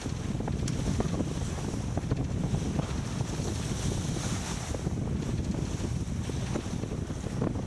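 Wind buffeting the microphone aboard a sailboat under way, a gusting low rumble, with a hiss of water that swells and fades and a few faint ticks.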